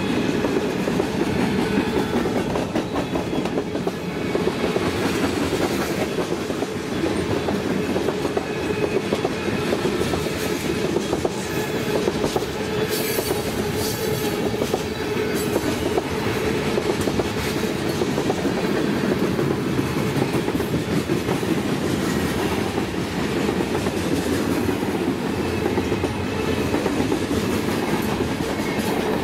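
BNSF freight train rolling past at track speed: a steady rumble of the cars with a fast, continuous clicking of wheels over the rail joints.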